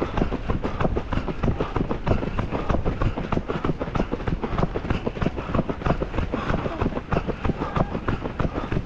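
Many running shoes slapping the road in a crowded marathon field, a fast, uneven patter of footfalls.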